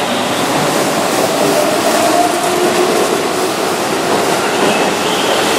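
Keihan 7200 series electric train running through a station without stopping, its cars passing close by: steady wheel-on-rail noise with the whine of its VVVF inverter-driven motors.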